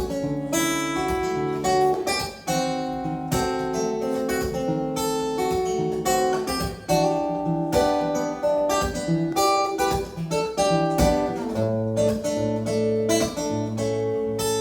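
Acoustic guitar playing a song's instrumental intro, a steady run of plucked notes and chords before the vocals come in.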